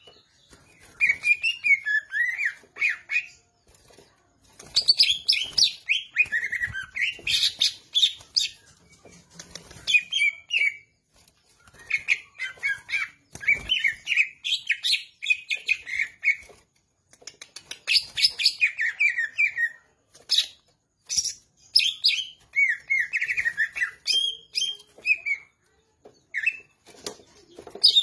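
A cucak ijo (green leafbird) singing loudly in long phrases of rapid, varied chirps and whistled notes, with short pauses between the phrases.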